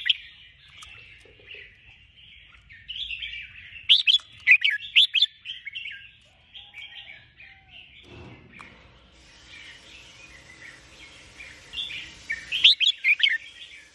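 Sooty-headed bulbul (kutilang) calling in bursts of quick, bright chirping notes, with loud sharp notes around four to five seconds in and again near the end. A brief low rustle about eight seconds in.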